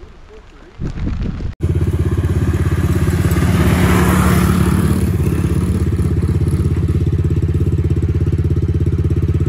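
Dirt bike engine running steadily at idle, close up, starting abruptly about one and a half seconds in with a fast, even pulse.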